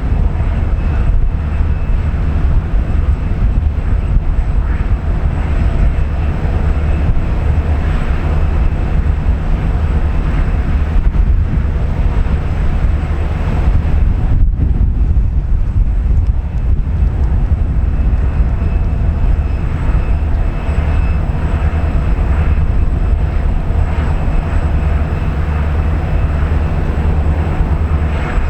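GE B23-7 diesel-electric locomotives with 12-cylinder GE FDL engines running under way in a loud, steady deep rumble.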